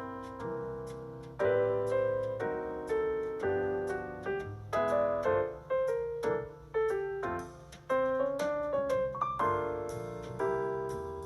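Background piano music: a solo piano playing a melody over chords, each note struck and fading away.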